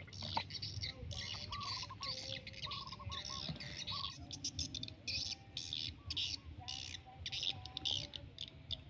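Birds calling, with short whistled notes repeated in little runs and quick, higher chattering bursts between them.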